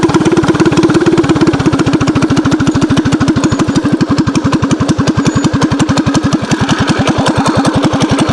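Mini bike's small single-cylinder engine running with even, rapid firing pulses; the revs drop a little about a second and a half in, then hold steady.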